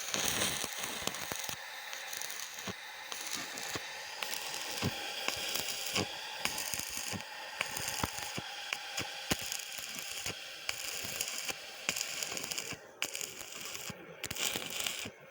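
Stick welding: the electric arc crackling and sputtering steadily with many sharp pops over a hiss, with a couple of brief breaks in the arc near the end.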